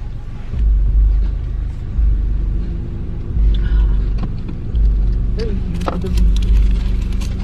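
Road noise inside a moving car: a low rumble that swells and fades a little more than once a second, with a faint steady hum above it.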